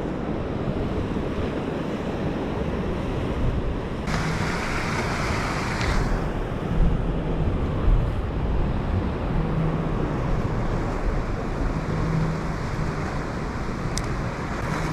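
Ocean surf washing steadily, with wind buffeting the microphone; a louder, hissier rush of water comes about four seconds in and lasts about two seconds.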